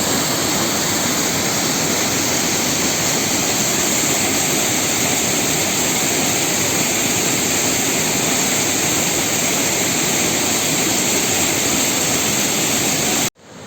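A waterfall's steady rush of falling water, loud and even, cut off abruptly near the end.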